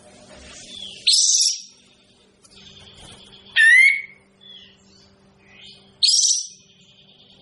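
Kapas tembak bulbul calling in short, loud phrases. A harsh, scratchy high call comes about a second in, a rising whistled call at about three and a half seconds, and another harsh call at about six seconds, with faint chirps between them. A faint steady low hum lies underneath.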